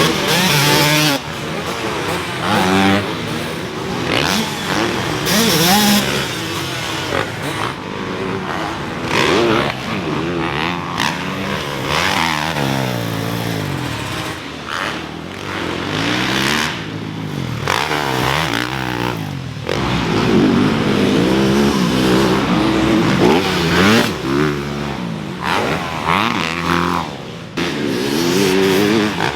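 Several motocross dirt bikes running on the track at once. The engines rev up and down in overlapping rising and falling pitches as the bikes accelerate and pass.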